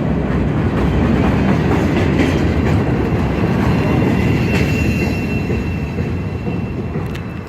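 Ferromex freight train rolling past: a steady rumble of wheels on rail, with a thin wheel squeal about midway. The sound slowly fades toward the end.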